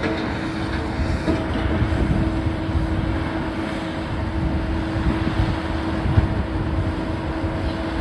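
Heavy demolition machinery running: a steady engine or hydraulic whine over an uneven low rumble.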